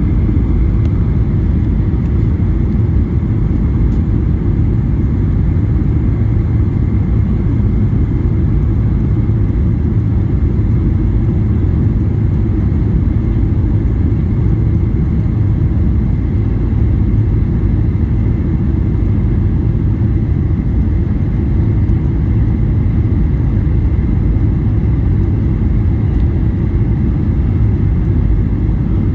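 Steady low rumble of a Boeing 737-800's CFM56-7B engines and the airflow, heard inside the passenger cabin in flight, with a faint steady high tone over it.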